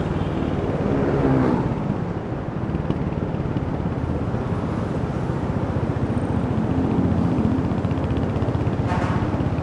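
Royal Enfield Hunter 350's single-cylinder engine and exhaust pulsing steadily while riding. The revs rise about a second in and dip briefly around two seconds in, then the engine pulls on steadily.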